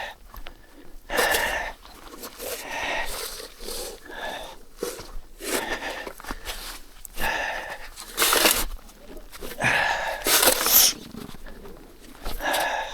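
A person trudging through deep snow, breathing hard, with irregular crunching steps about every second; the two loudest crunches come near 8 and 10 seconds in.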